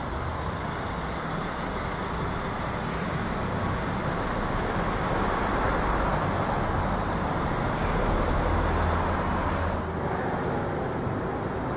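Motor vehicle engine running steadily amid street traffic noise, with a deep low rumble that swells a little in the middle and eases about ten seconds in.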